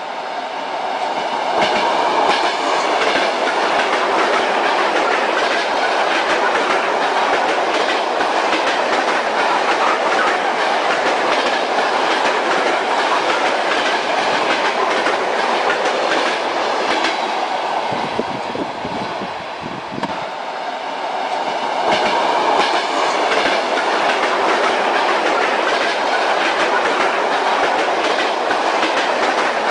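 Moving train's wheels clacking over the rail joints over a steady running rumble. The sound eases briefly about two-thirds of the way through, then picks up again.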